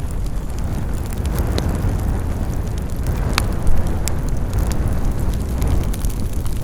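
Campfire burning with a steady low rumble and scattered sharp crackles and pops of burning wood.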